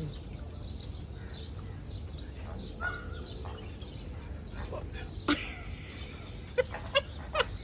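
Bird calls: a short whistle about three seconds in, then a run of short, sharp calls near the end, over a steady low rumble.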